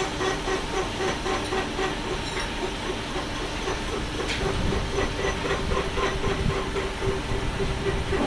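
Metal lathe running, with a steady hum, a hiss and a regular ticking rhythm.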